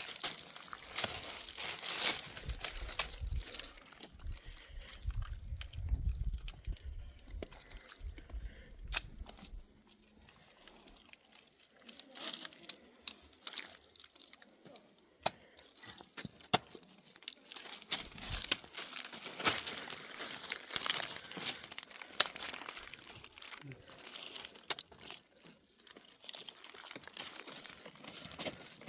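Crinkling and crunching handling noises with scattered sharp clicks and knocks, and a low rumble from about four to nine seconds in.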